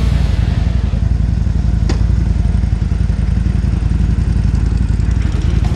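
Harley-Davidson motorcycle's V-twin engine running steadily on the move, with a single sharp click about two seconds in.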